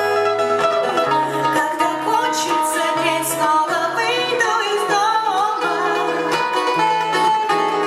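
Live band playing an instrumental passage: a steady stepping bass line under a wavering, bending lead melody.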